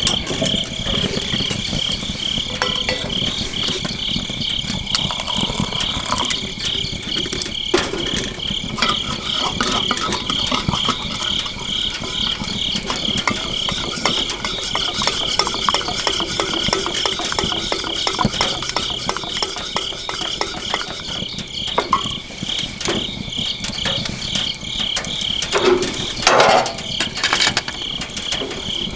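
Crickets chirping in a steady, evenly pulsing chorus, with small scattered crackles from a wood campfire. A short louder noise comes near the end.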